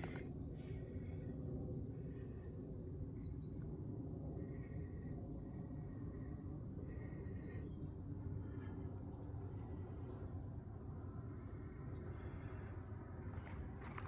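Woodland ambience: small birds giving many short, high-pitched chirps over a steady low background rumble.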